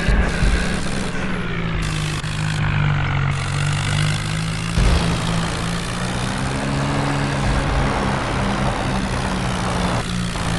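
Tractor diesel engine running steadily, its low note wavering slightly in pitch.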